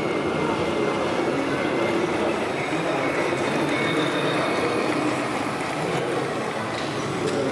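Steady, dense background din of a busy exhibition hall, with a few faint thin whining tones over it.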